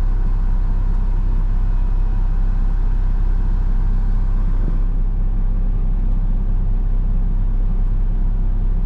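Front-load garbage truck's diesel engine idling steadily, a constant low hum heard from inside the cab while the truck is parked.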